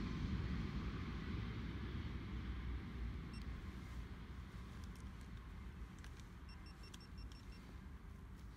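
Double-deck electric commuter train running away into the distance, its rumble fading steadily.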